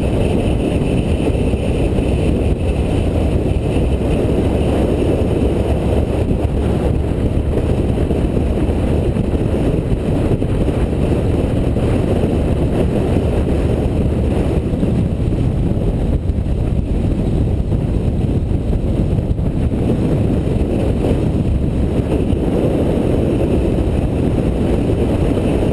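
Steady wind rumble on the microphone over motorcycle engine and road noise, riding along at speed.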